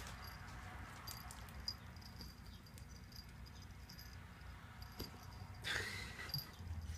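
Kittens scampering on the floor: faint, scattered taps and ticks of paws and claws over a steady low room hum, with a brief louder scuffle about six seconds in.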